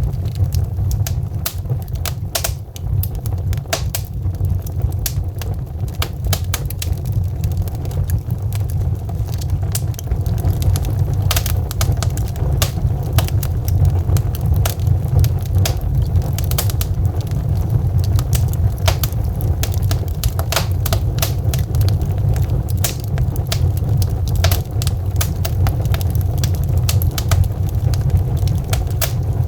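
Logs burning in a fireplace, crackling and popping in quick irregular snaps over a steady low rumble of the flames.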